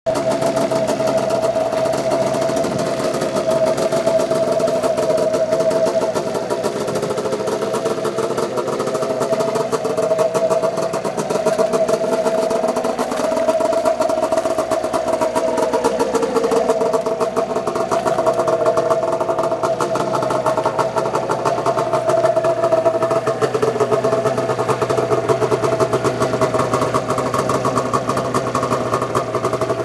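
1999 Arctic Cat ZR 600 EFI snowmobile's two-stroke engine running steadily at a low speed, its pitch drifting slightly up and down now and then.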